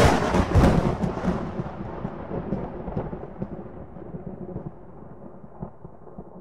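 A sudden loud boom, like a thunderclap, that rumbles and slowly dies away over about six seconds.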